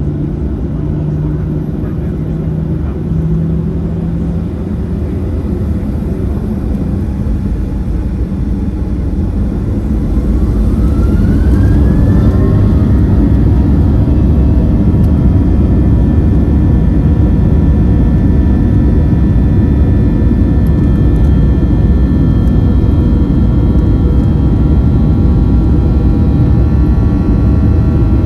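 Boeing 737 jet engines spooling up to takeoff thrust: about ten seconds in a whine rises in pitch and the sound grows louder, then the engines run steadily at full power with a steady whine over a deep rumble.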